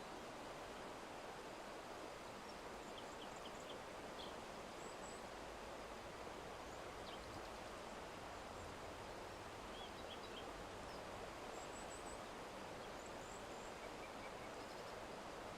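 Steady, faint outdoor background hiss with small birds chirping faintly here and there, in short high twitters.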